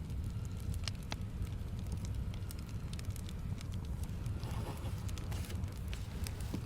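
Wood fire in a fireplace crackling: scattered sharp pops over a steady low rumble.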